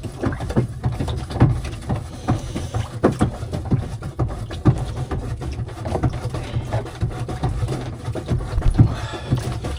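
Irregular knocks and clatters on a small fishing boat over a steady low rumble.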